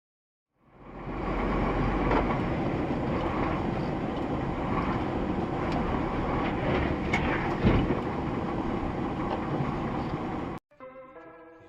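Steady vehicle road and engine noise with scattered clicks and one sharp thump about two thirds of the way through; it cuts off suddenly near the end.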